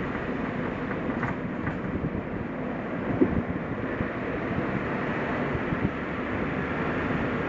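Suzuki Jimny driving down a mountain forest road: steady engine and tyre noise, with a few small knocks or rattles, the loudest about three seconds in.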